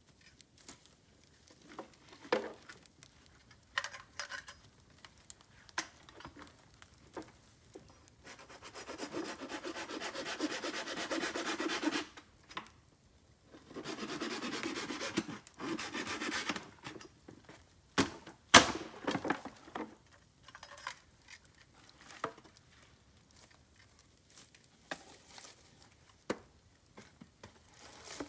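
Bamboo being handled: two long stretches of woody rubbing and scraping, each a few seconds long, among scattered small clicks and crackles. Two sharp snaps come close together a little past the middle and are the loudest sounds.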